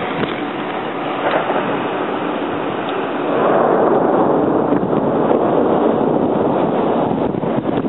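Blizzard wind buffeting the microphone: a steady rush of noise that swells louder about three seconds in and holds there.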